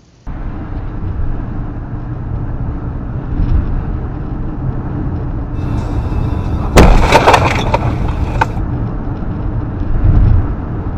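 Car interior and road rumble while driving, then a sudden loud crash about seven seconds in: a collision with crunching and breaking lasting about a second and a half before the rumble carries on.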